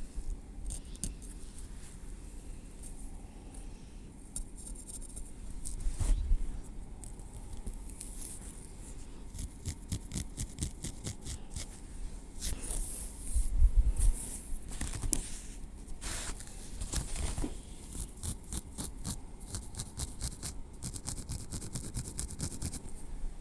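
Close-miked tweezers working through hair on the scalp: many fine, rapid clicks and scratchy rustles. There are soft low bumps about six seconds in and again around thirteen seconds.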